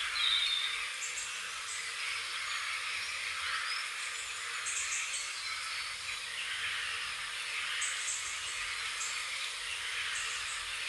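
Wild birds chirping in short, high bursts every few seconds over a steady outdoor hiss.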